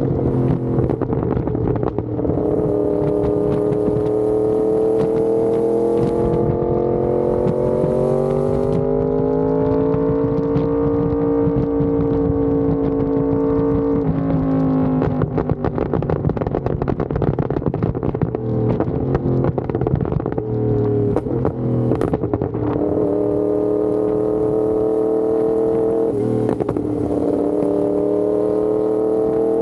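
Yamaha R1M's crossplane inline-four running through an SC Project exhaust under way. The engine note climbs slowly, holds, drops sharply about halfway through, then picks up again with a few dips and a rise near the end.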